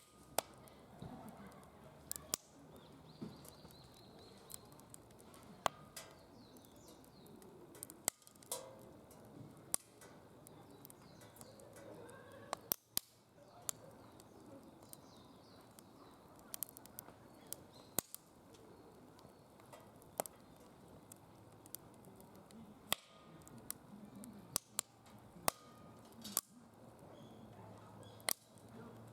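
Wood fire crackling in a DOD Mecha Moe Fire fire pit: scattered sharp pops and snaps at irregular intervals over a low, steady hiss of burning.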